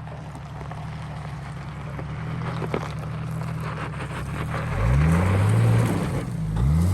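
Jeep Cherokee XJ engine running steadily under light throttle, then revved up twice near the end, the pitch climbing quickly each time and holding.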